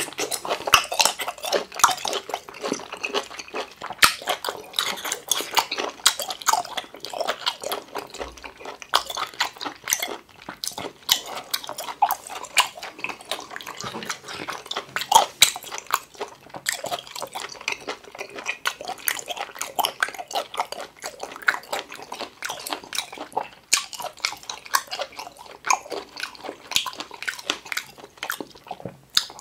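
Close-up chewing and biting of octopus tentacle: a steady stream of short, wet mouth clicks and smacks.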